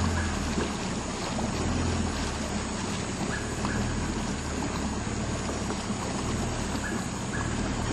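Small river tour boat's motor running steadily with a low hum, under an even rush of wind and water noise.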